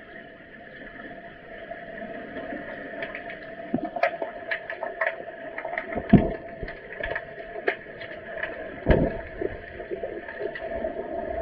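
Sounds of underwater hockey play in the pool: a steady hum with frequent scattered clicks and knocks, and two louder thumps about six and nine seconds in.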